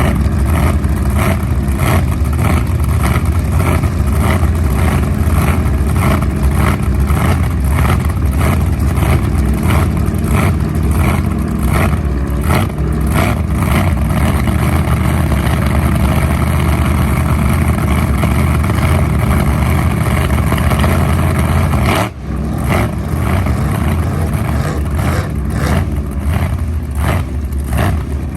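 Unlimited-class V8 jet sprint boat engine running hard, revving up and down in quick surges. The sound cuts off sharply about three-quarters of the way through and picks straight up again.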